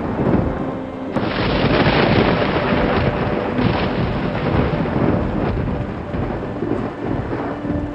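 Thunderstorm with heavy rain and rolling thunder. A louder rumble breaks in about a second in and runs on.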